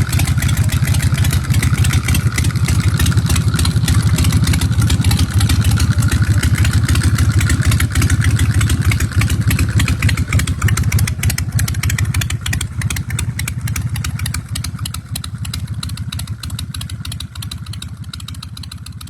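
Custom chopper's 117 cubic inch S&S V-twin engine running with a rapid, steady beat, fading out over the last few seconds.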